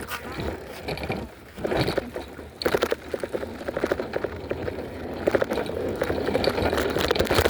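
Bicycle being ridden over concrete: tyre noise and rumble, with frequent rattles and clicks.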